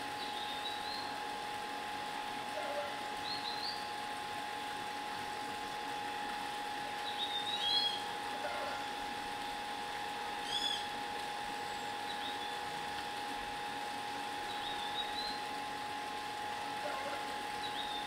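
Short high bird chirps, one every couple of seconds and about eight in all, a few paired with a lower note, over a steady hiss of running stream water and a faint steady tone.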